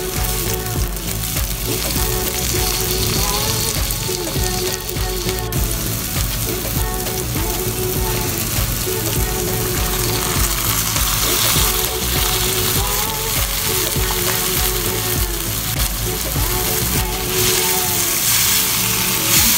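Onions and tomatoes sizzling in hot oil in a wok while a wooden spatula stirs them. Chopped chicken gizzards are added about halfway through, and the sizzle grows brighter after that. Background music plays underneath.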